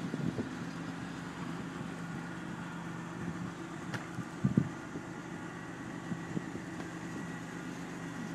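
A car engine idling steadily, with a low thump about four and a half seconds in.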